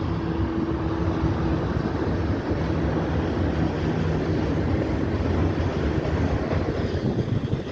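CSX freight train passing: its diesel locomotives go by with a steady engine drone, then tank cars roll past on the rails with a continuous rumble.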